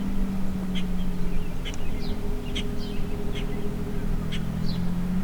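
Repeated short bird chirps over a steady low hum.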